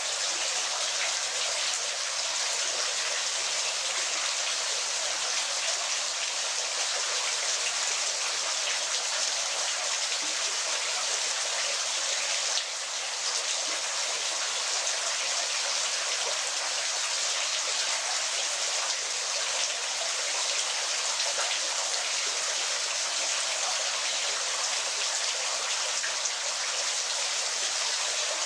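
Waterfall water falling and splashing steadily: a dense, even hiss of water with fine droplet splashes throughout, dipping briefly in level about halfway through.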